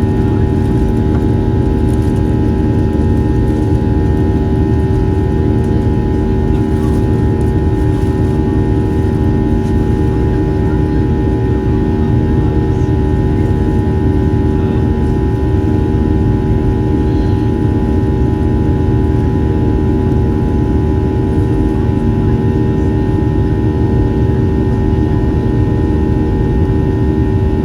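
Steady drone of a Boeing 737 in flight heard from inside the passenger cabin: the turbofan engines and rushing airflow make an even rumble with several held humming tones, unchanging throughout.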